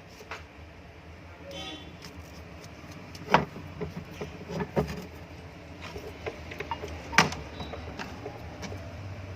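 Scattered light clicks and taps from handling the exhaust fan's opened motor housing and its wiring, over a low steady hum; three sharper knocks stand out, about three, five and seven seconds in.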